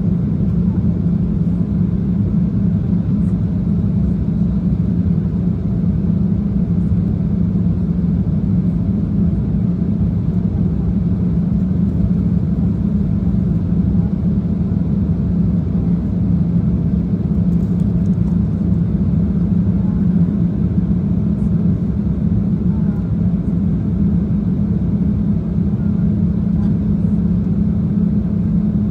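Airliner cabin noise in flight: the engines and airflow make a steady low drone with a strong hum, unchanging throughout.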